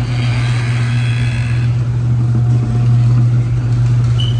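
Car engine running with a steady low drone.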